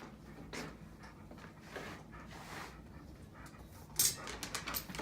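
A pit bull panting softly, then a burst of sharp clicks and knocks starting about four seconds in.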